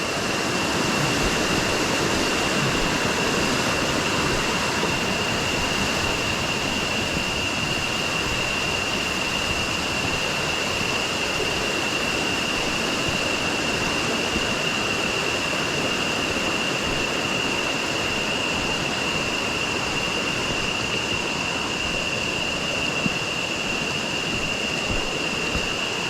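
Jungle river water rushing steadily over rocks, with a constant high-pitched whine running above it.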